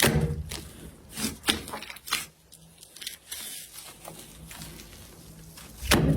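Slime being squeezed and pressed by hand, with a run of crisp crackles and pops. The loudest squish-and-crackle comes at the start and again near the end.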